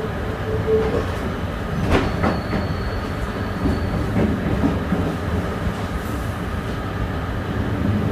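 Passenger train running along the track, heard from inside the driver's cab: a steady rumble with a few sharp clacks of the wheels over rail joints or points, and a faint thin high whine for a couple of seconds in the middle.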